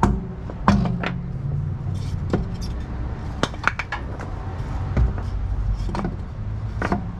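Irregular sharp clinks and knocks, like metal parts or tools being handled, over a steady low hum.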